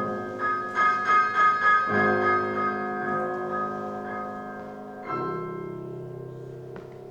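Piano playing a slow instrumental passage of separate notes, then a chord about five seconds in that is held and slowly fades.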